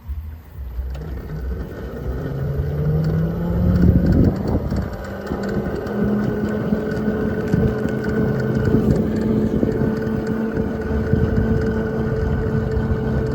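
Electric dual-sport motorcycle riding off in eco mode: the motor whine rises in pitch as it picks up speed over the first few seconds, then holds a steady pitch at low cruising speed, with wind buffeting the microphone.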